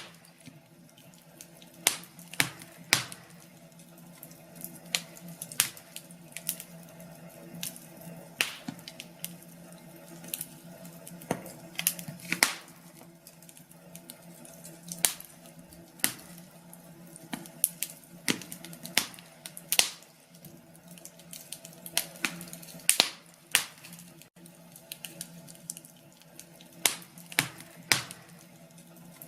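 Wood fire crackling: irregular sharp pops and snaps, sometimes several in quick succession, over a faint steady hum.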